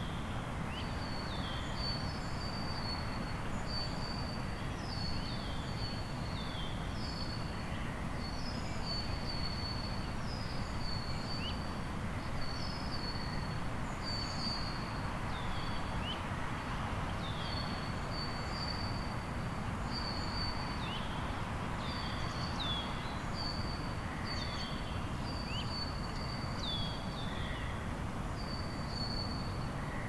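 Birds calling over and over in short, high notes, many ending in a quick downward slide, over a steady low background rumble.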